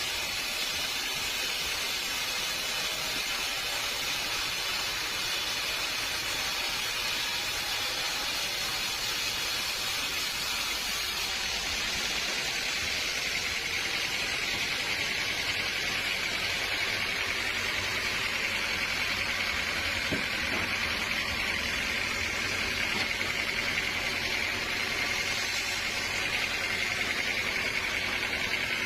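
Sawmill machinery running steadily, a continuous hissing noise with a faint high whine that grows a little stronger about halfway through.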